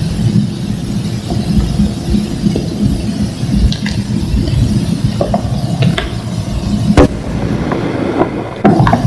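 Thick homemade gym chalk slabs being crushed and crumbled by hand: a steady crunching, broken by sharp snaps as pieces crack, the loudest about seven seconds in.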